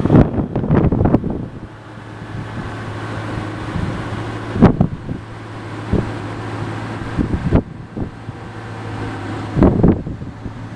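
Twin-turbo Hemi V8 engine coming down off a loud run in the first second, then idling with a steady hum, broken by four short sharp bursts.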